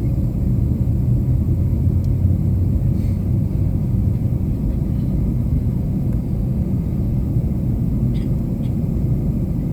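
Steady low rumble of an Airbus A321-200 airliner cabin on the ground before takeoff, with a few faint clicks.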